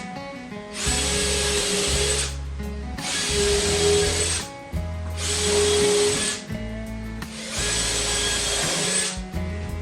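A power tool running in four bursts of about a second and a half each, starting and stopping roughly every two seconds, over background music.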